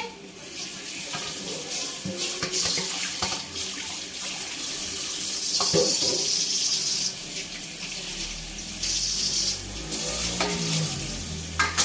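Water running from a tap into a sink, the flow louder in stretches, with a few knocks.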